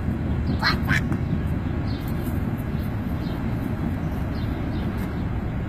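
Steady low rumble of a passing CN train. About a second in come two short squeaky cries.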